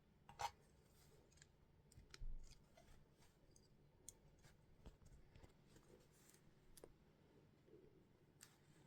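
LEGO bricks being handled and pressed together: faint, scattered clicks and taps, the loudest about half a second in.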